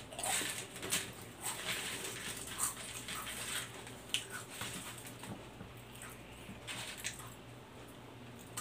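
Potato chips being crunched and chewed: irregular crisp crackles, busiest in the first half and thinning out toward the end, with chips rustling as a hand picks them from a plastic tray.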